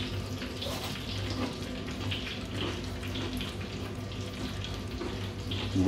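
A person chewing a bite of freshly fried chicken strip with a cornflake crust, its breading crunching in short irregular bursts, over a steady low hum.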